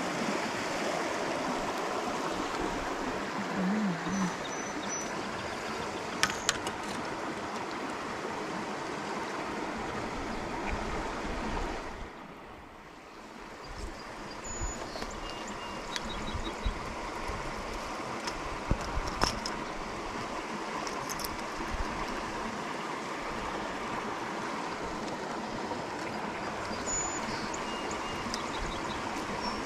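Creek water running steadily, with a few sharp clicks scattered through and a short drop in level about twelve seconds in.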